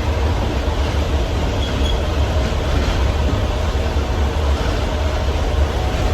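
Inside a small city bus while it is moving: a steady low rumble of engine and road noise.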